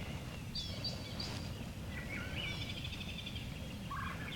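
Songbirds calling in spring woodland: short high whistled notes about a second in, then a trilled, chattering phrase in the middle, over a steady low background rumble.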